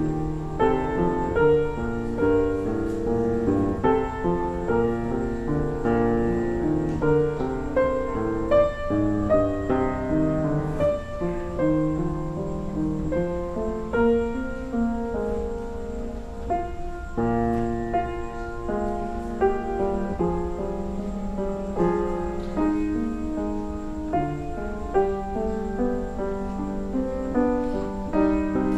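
Piano music: chords and melody played at a calm, even pace with no singing.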